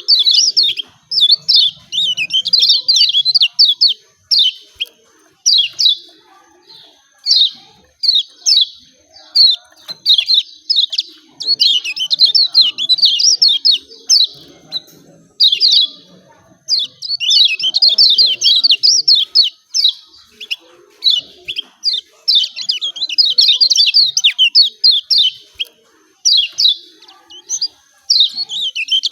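Lemon-bellied white-eye (kecial kuning) giving rapid, sharp 'ciak ciak' chirps in dense bouts of a second or two, broken by short pauses.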